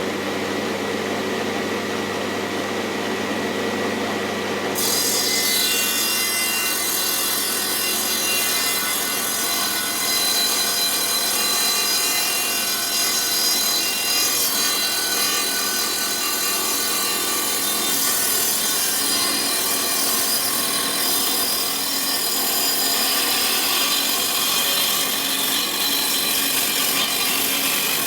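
A restored old table saw running with a steady motor hum, then cutting into wood from about five seconds in, the blade hissing through the cut.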